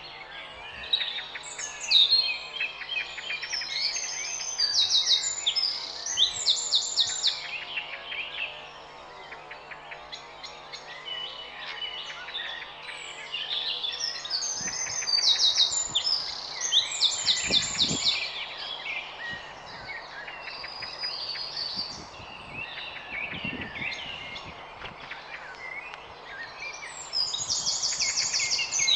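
Several garden birds singing and calling over one another: fast trills and runs of repeated chirps, one after another.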